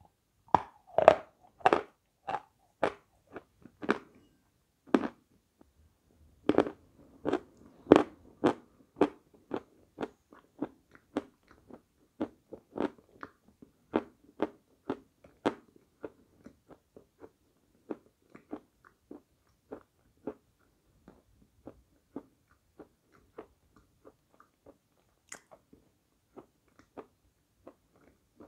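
A person crunching and chewing dry chunks of edible chalk close to a lapel microphone: crisp, sharp crunches come thick and loud in the first half, then thin out to softer, smaller chewing crunches as the pieces are broken down.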